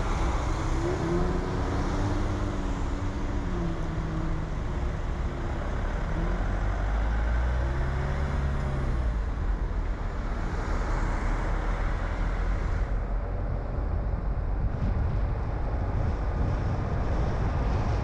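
Car driving on town roads: steady engine and tyre noise, with an engine note rising and falling twice in the first half.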